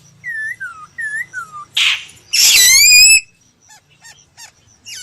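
Laughingthrush singing: two pairs of clear whistled notes that slide downward, then a short harsh note and a loud run of rising whistles about halfway through, ending in short quick notes.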